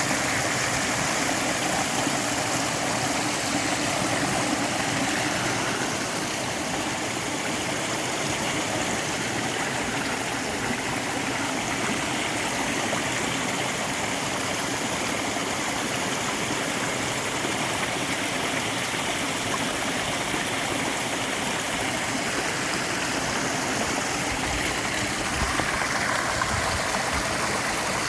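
Clear stream water flowing over rocks, a steady, unbroken babble.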